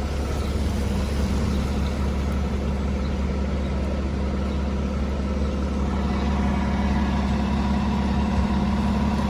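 Heavy truck engine idling steadily with a deep, even hum and no change in speed.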